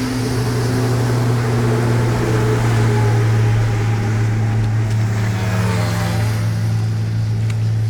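An engine running steadily with a strong low hum, its higher tones drifting slowly in pitch.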